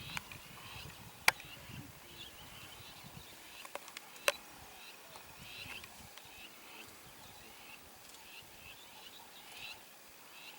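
Small birds chirping over and over with short, quick calls. Two sharp clicks cut through, one about a second in and a louder one about three seconds later.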